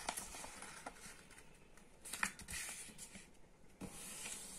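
A square of colour paper being folded and creased by hand: faint rustles and crinkles, with a few sharper crackles about two seconds in and again near the end.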